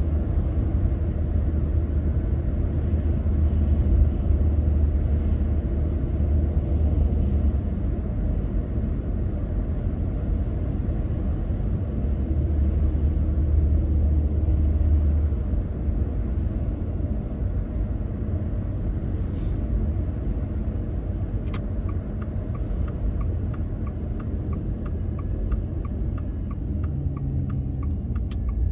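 Car driving, a steady low rumble of road and engine noise. About three-quarters of the way in, a turn indicator starts ticking steadily, two to three ticks a second.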